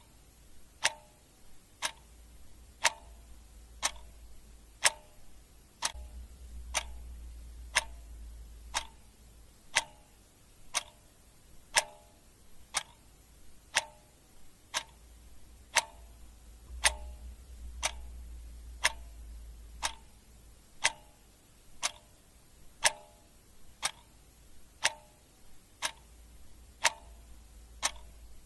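Clock ticking steadily at about one tick a second, each tick a sharp click with a short ring. A faint low rumble comes and goes beneath it.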